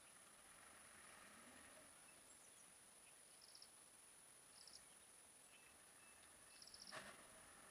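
Near silence: faint outdoor ambience with three short, high chirping trills and a single sharp click near the end.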